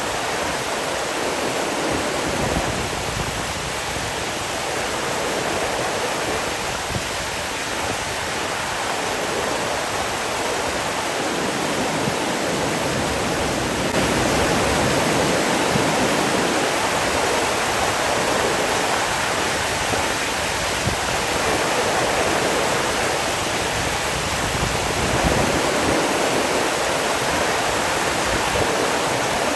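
Steady rush of running water, a little louder from about halfway through.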